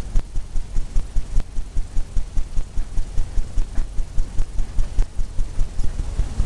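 A 2-inch paint brush tapping oil paint onto a stretched canvas to stipple wave foam: a rapid, even run of dull thumps, about five or six a second.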